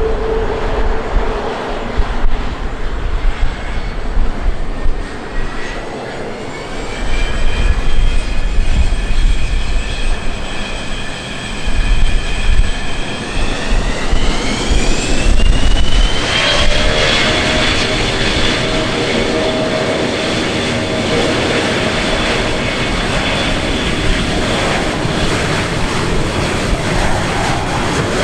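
Jet aircraft engines spooling up: a whine that climbs in pitch about halfway through, then holds steady at high power over a deep rumble.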